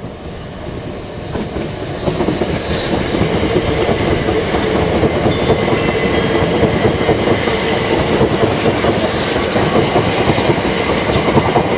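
Thameslink electric multiple-unit train passing, its wheels rumbling and clattering over the rail joints. It builds up over the first couple of seconds as the train arrives, then stays loud and steady.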